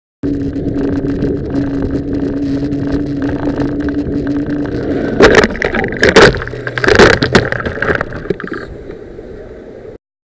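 Vehicle driving with a steady hum, then a road crash: about halfway through come three loud bangs of impact within two seconds, after which the noise dies down.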